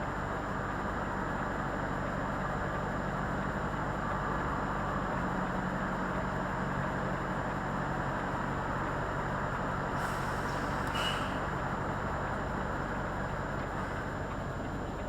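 Volvo FH 44-tonne artic lorry's diesel engine running, heard from inside the cab. Its note changes about five seconds in, and a short hiss comes about ten seconds in.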